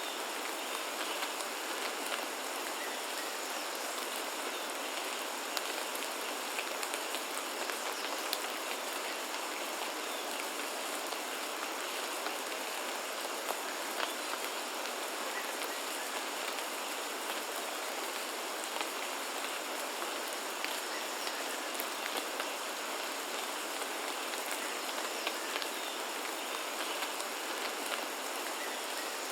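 Steady rain falling, with scattered sharper hits of single drops.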